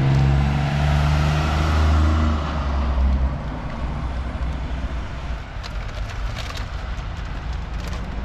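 An old truck's diesel engine running loud as it drives past: a deep engine drone for the first three seconds or so, then fading into steady traffic noise.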